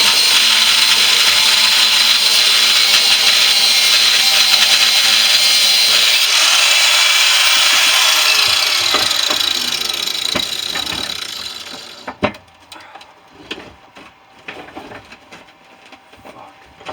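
Power tool cutting into the steel shell of a central air conditioner compressor, running loudly and steadily for about eight seconds, then dying away over the next few seconds. A few light knocks follow.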